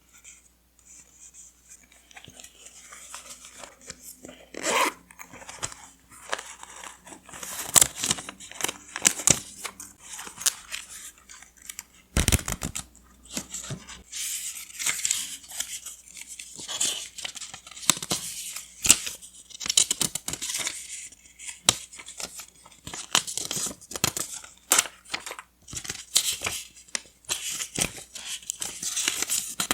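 Paper being torn, crinkled and cut with scissors: a dense run of crisp crackles, rasps and snips that starts faint and becomes steady after a few seconds.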